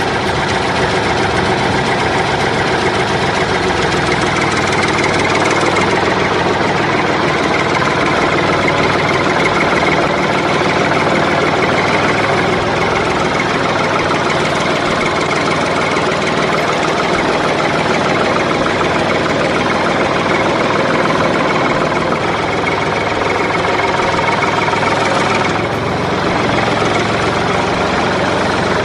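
An engine idling steadily and evenly throughout.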